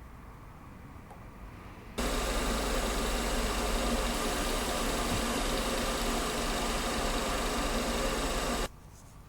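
Schaublin 102 watchmaker's lathe running while taking a cut on a copper watch dial: a loud, steady motor hum and hiss. It starts abruptly about two seconds in and cuts off abruptly near the end.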